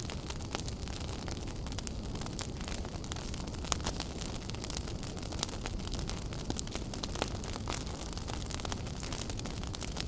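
Wood fire burning in a fireplace, with frequent sharp crackles and pops over a steady low rumble.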